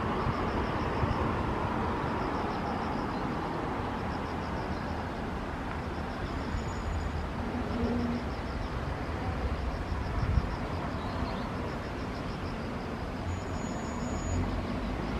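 Distant jet roar from the twin turbofan engines of a Kawasaki C-2 military transport taking off, a steady rushing noise with no clear rise or fall. A high pulsing chirp repeats throughout.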